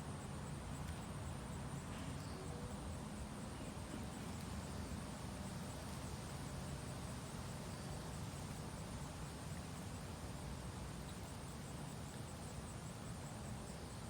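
Steady low hum and hiss of outdoor background noise, with no distinct calls or splashes standing out.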